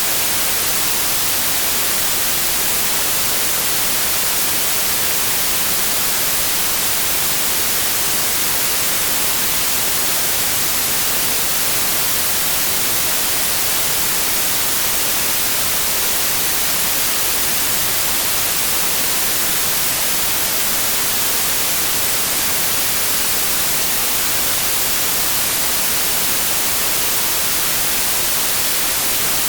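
Steady electronic white noise: an even, unchanging hiss with no tones or events.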